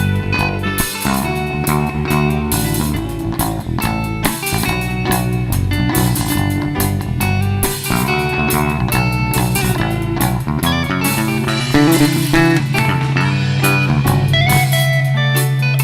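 Live band playing an instrumental passage without vocals: guitar lines over bass and drums, with a low bass note held near the end.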